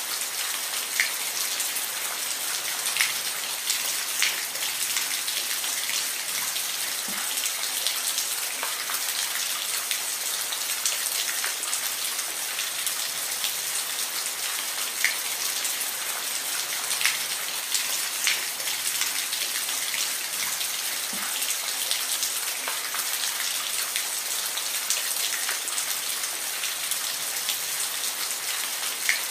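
Steady rainfall: a constant hiss of rain with scattered distinct drops ticking on a surface.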